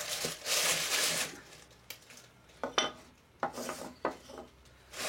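Dutch oven and its lid clattering while the baked loaf is got out: about a second of scraping and rustling, then a few separate sharp metallic clinks.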